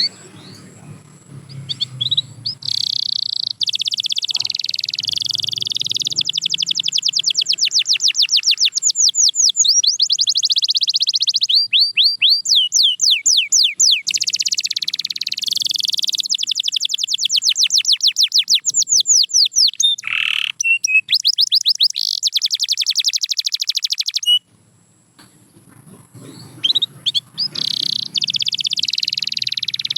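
Domestic canary singing: long rolling trills of fast repeated high notes, changing speed from phrase to phrase, with a pause of about two seconds near the end before the song starts again.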